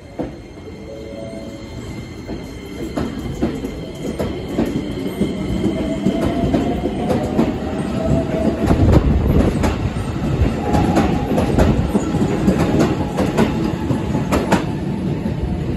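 Keikyu New 1000 series electric train pulling out and accelerating past. Its wheels clack over the rail joints at a quickening pace under a steady rumble, and the electric motors give a whine that rises in pitch. The sound grows louder as the cars go by.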